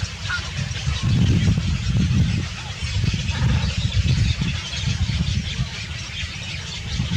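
Many birds calling and chattering together, over a steady low rumble.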